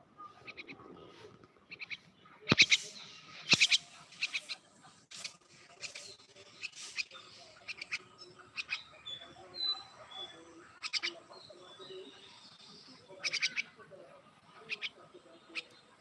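A fledgling bird calling: short, high, harsh chirps repeated in clusters, the loudest about two and a half and three and a half seconds in.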